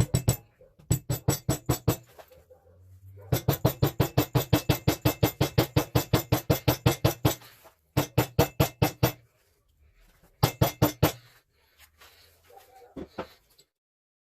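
Rapid, evenly spaced metallic tapping, about six strikes a second, in five runs with short pauses between; the longest run lasts about four seconds.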